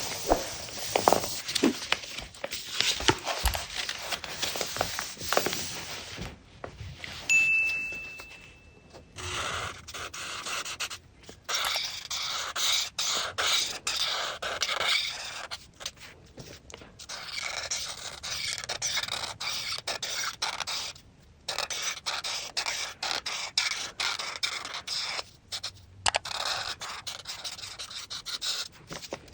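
A coloring tool scratching across paper in quick, repeated back-and-forth strokes, broken by a few short pauses.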